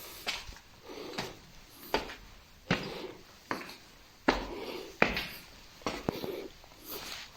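Footsteps on the cave's stone floor, about one every three-quarters of a second at a walking pace, each with a short echo off the rock walls.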